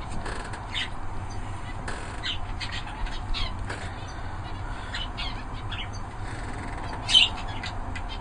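Canaries calling with short, scattered chirps, one louder call about seven seconds in, over a steady low background hum.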